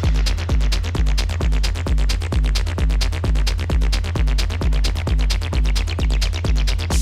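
Techno music: a steady four-on-the-floor drum-machine kick with deep bass at about two beats a second, with hi-hats ticking between the beats.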